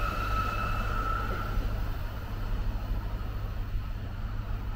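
A train moving off or past: a low rumble of wheels on track slowly fading, with a high steady whine that dies away about a second and a half in.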